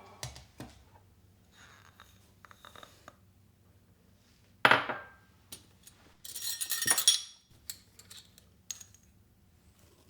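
Kitchenware being handled: small clicks and taps, a sharp knock with a short ring about halfway through, then a second or so of rattling, ringing clinks like dishes or utensils knocking together.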